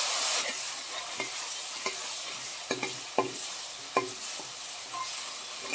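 Ginger-garlic paste sizzling as it fries in hot ghee and groundnut oil in a metal kadai. A metal slotted spoon stirs it, scraping and tapping against the pan about once a second. The sizzle is loudest for the first half second, then settles to a steady hiss.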